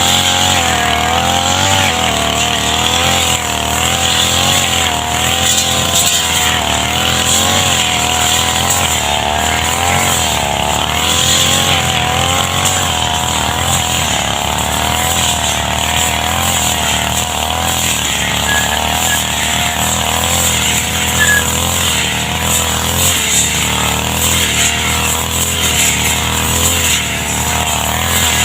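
Two-stroke brush cutter engine running at high revs without a break, its pitch wavering up and down as it cuts grass.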